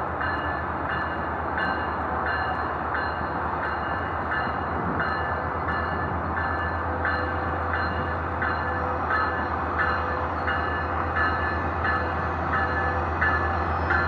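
Metrolink commuter train approaching and running along the far track: a steady low diesel rumble and rail noise, with a bell ringing in even strokes a little faster than once a second. A loud train horn blast starts at the very end.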